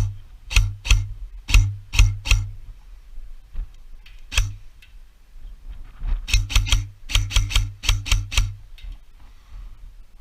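Airsoft gun firing single shots in quick succession: a string of about six sharp shots, a lone shot about four seconds in, then a faster string of about a dozen shots between six and nine seconds.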